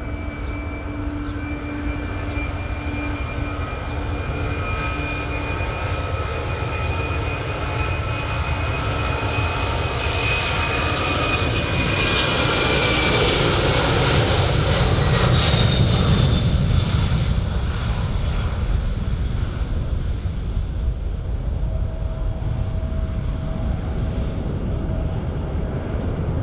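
Airliner's engines passing close by: a low rumble and a high whine that build to a peak about halfway through. The whine drops in pitch as the aircraft goes past, then the sound fades.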